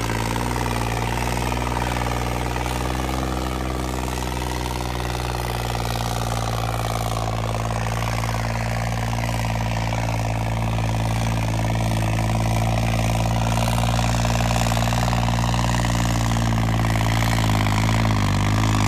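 Tractor diesel engine running steadily under load while pulling a harrow, its pitch holding even.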